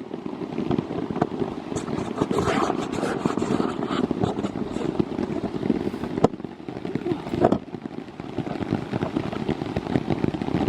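Rain pattering close to the microphone, a dense steady crackle, with a sharp click about six seconds in and a knock about a second later.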